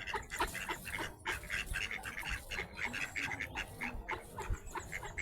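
Ducks calling: a busy run of short, repeated calls, several a second.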